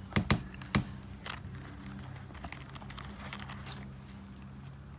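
Pieces of rough opal clicking against each other and a hard surface as they are handled and sorted by hand: a few sharp clicks in the first second or so, then lighter ticks and rustling. A low steady hum runs underneath.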